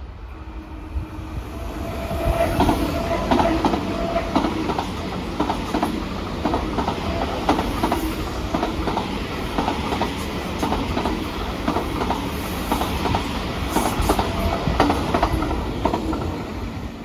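A train passing close by, its wheels clicking in a steady rhythm over rail joints. There is a held whine in the first few seconds. The sound swells about two seconds in and fades near the end.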